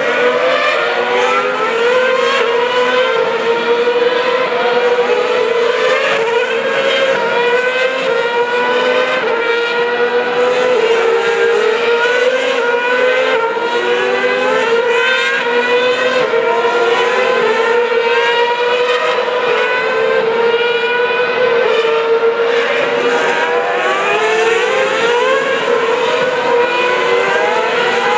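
Formula One cars' engines heard from high above the track, several at once, repeatedly accelerating through the gears in overlapping rising whines.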